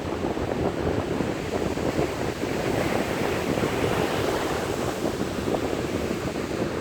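Sea waves breaking and washing on the shore, a steady rush of surf, with wind buffeting the microphone.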